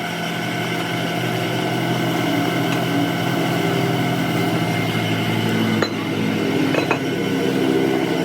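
Workshop machine tool running steadily with a motor hum, with a couple of sharp metallic clicks near the end.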